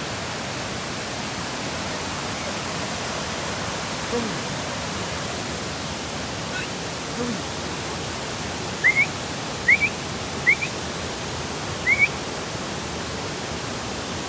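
Steady roar of a mountain waterfall, with four short rising high chirps over it in the second half.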